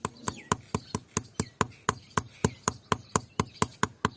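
Blacksmith's hand hammer striking the steel cleaver blade on an anvil in fast, even blows, about four to five a second, each with a short metallic ring.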